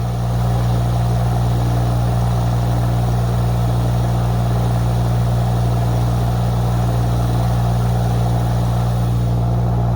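A 2-ton Chinese mini excavator's engine running steadily at a constant speed.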